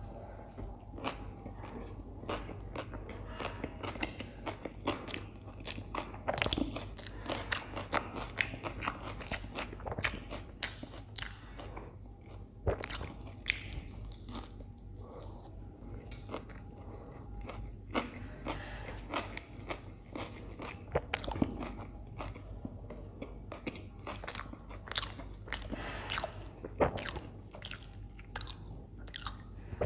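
Chewing and biting into toasted aloo (potato) sandwiches, with many crisp crunches of the toasted bread. A few louder crunches stand out along the way.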